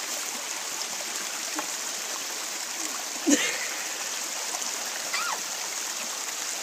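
Creek water rushing steadily over rocks, flowing freely after a logjam has given way. A sudden louder splash-like sound breaks in about three seconds in.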